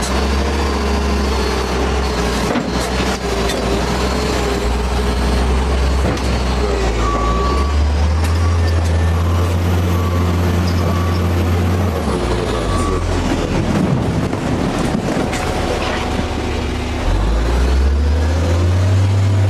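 Heavy diesel engine of earthmoving equipment running hard under load, its deep note shifting up and down as the machine works, with a few knocks over the noise.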